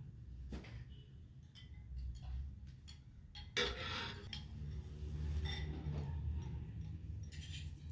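Light clinks and taps of utensils on dishes, with a louder scrape about three and a half seconds in.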